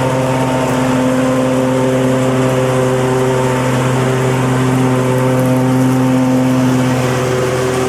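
Lawn mower engine running at a steady speed, with an even hum.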